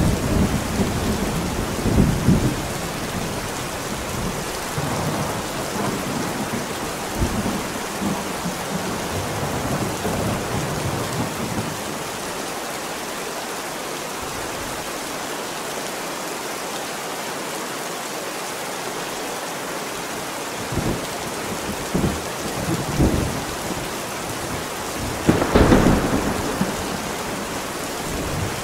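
Steady heavy rain with rolling thunder rumbling in the first half, easing to rain alone for a while, then a sharp thunderclap and rumble near the end, the loudest moment.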